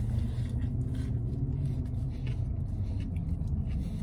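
A vehicle engine idling with a low steady rumble, easing somewhat after the first couple of seconds, with faint chewing sounds from a bite of sandwich.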